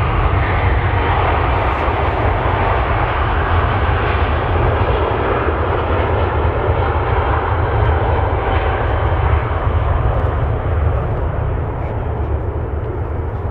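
Jet airliner's engines, a loud steady rumble with a rushing noise over it as the plane passes, easing a little near the end.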